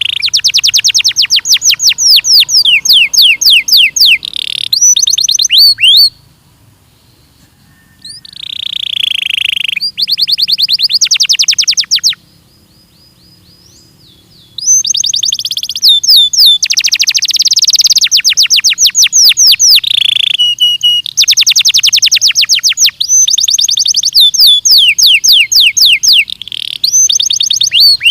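Belgian canary singing loud, rapid trills of quickly repeated sweeping notes in long phrases. The song breaks off twice, for about two seconds each time.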